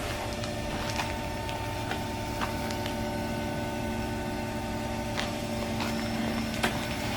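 Steady machinery hum with a low rumble, and a few short sharp clicks scattered through it.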